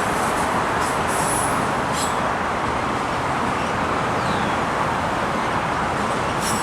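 Train rolling past, a steady rushing noise of wheels on rail, with a few brief high squeaks about one to two seconds in.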